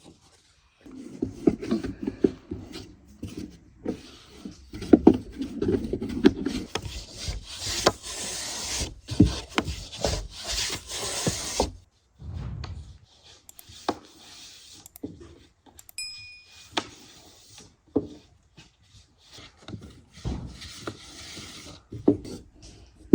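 Scraping and rubbing with many scattered knocks and clicks, dense and loudest through the middle, from hands and utensils working food. About 16 seconds in there is a brief ringing clink.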